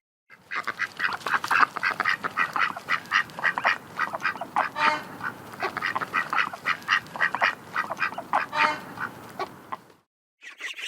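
Domestic ducks quacking in a rapid, irregular series of short calls, stopping about a second before the end.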